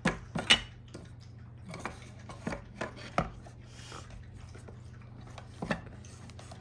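Irregular clicks and knocks of objects being handled, over a steady low hum.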